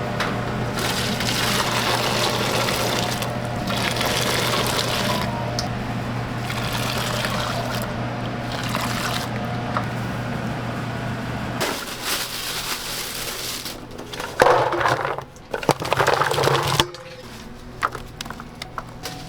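Water running and splashing over a steady low hum that stops about twelve seconds in, followed by a few louder knocks and clatters near the end.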